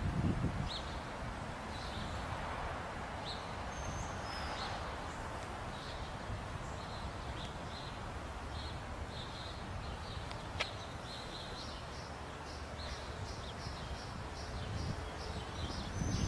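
Birds chirping in a dawn chorus in a wooded park: a steady run of short, high, repeated chirps, now and then a higher note, over a low background rumble. One sharp click comes a little past the middle.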